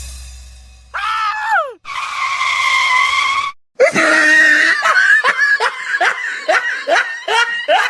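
High-pitched screaming. One cry falls in pitch, a long shriek is held for about a second and a half, and then a run of short repeated shrieks follows, about three a second, like hysterical laughter. Under the first cry, a deep boom fades out.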